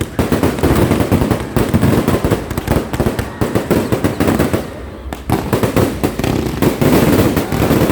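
Fireworks going off in a dense barrage of rapid bangs and crackles, with no gap between them.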